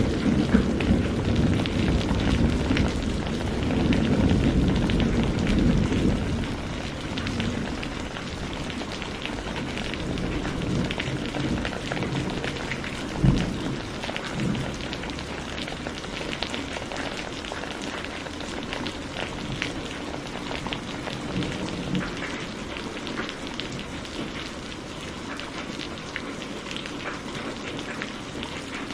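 Steady rain with many drops pattering on a surface, while a low thunder rumble dies away over the first several seconds. A short low thump of distant thunder comes about midway.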